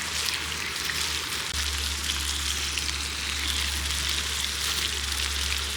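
Food frying in plenty of hot oil in a pan over a campfire: a steady crackling sizzle and spatter. A low steady rumble sits underneath and strengthens about a second and a half in.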